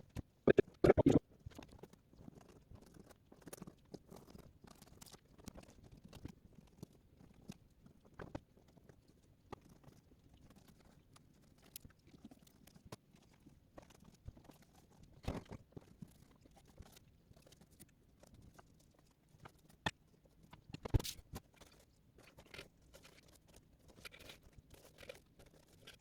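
Faint, scattered crunching, dabbing and small knocks as wet rigidizer coating is worked onto a furnace's ceramic fiber wool lining. A few louder knocks stand out, about a second in and twice more in the second half.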